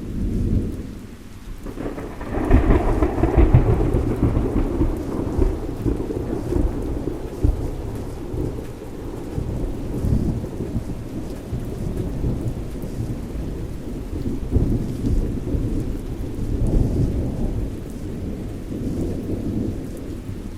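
Thunderstorm: heavy rolling thunder over steady rain. The thunder swells sharply about two and a half seconds in and keeps rumbling, with smaller swells later.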